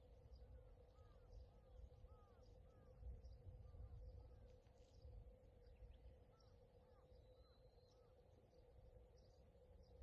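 Faint birds calling in the distance, a string of short chirps repeating throughout, over a low rumble and a faint steady hum.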